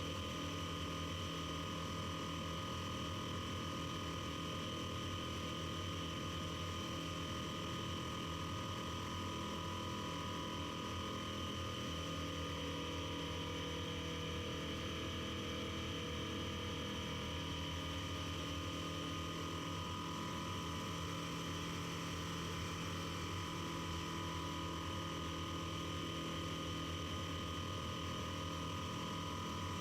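Piper Super Cub floatplane's engine and propeller droning steadily in flight: a few constant tones over an even rushing noise, holding the same pitch and level throughout.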